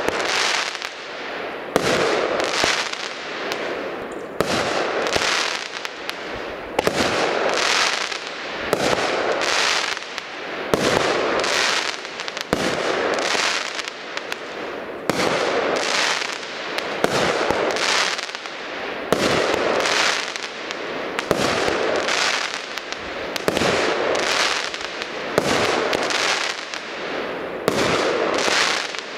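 Panda Feuerwerk 'Silver King' firework battery (cake) firing shot after shot, a sharp report roughly every second, each trailed by a short rush of noise.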